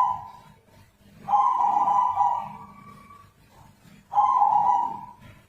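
Zebra dove (perkutut) giving drawn-out, steady-pitched calls: the end of one at the start, a long call of about two seconds, and a shorter one near the end.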